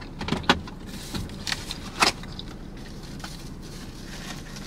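Close-miked chewing of a Nashville hot mozzarella stick: a few sharp mouth clicks and smacks in the first two seconds, then quieter, with faint handling of a paper napkin near the end.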